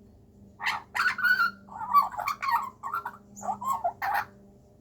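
Young Australian magpie giving a quick run of short, harsh, warbling calls, about eight in a row, as if chattering back in conversation.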